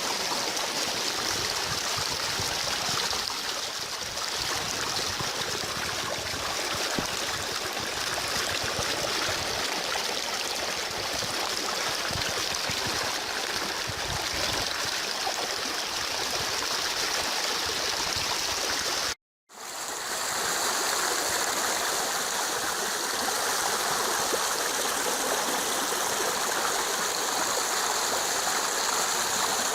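Stream running full after heavy rain: a steady rush of flowing water. It cuts out completely for about half a second around nineteen seconds in, then carries on.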